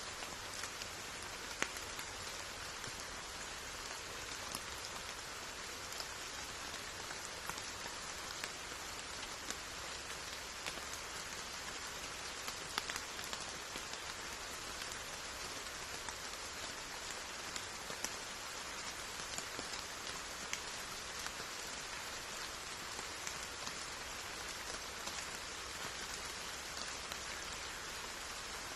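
Steady rain falling, an even hiss with scattered individual drops ticking throughout.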